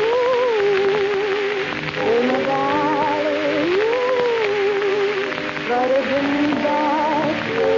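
A 1930s dance orchestra playing a slow melody, its lead line wavering with a vibrato, in phrases of a second or two. A steady hiss and crackle from the old recording runs underneath.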